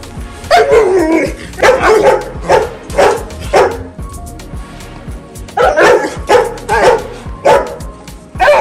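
Rottweiler barking in short repeated barks, about a dozen in two runs with a pause in the middle, over background music.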